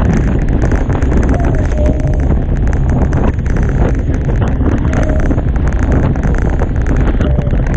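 Strong wind buffeting the microphone over the rush and hiss of water past a Hobie Tiger catamaran's hulls on a fast run in near 30-knot winds.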